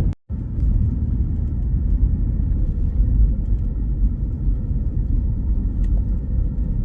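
Car driving slowly on a snowy road, heard from inside the cabin: a steady low rumble of engine and road noise. It cuts out for a moment just after the start.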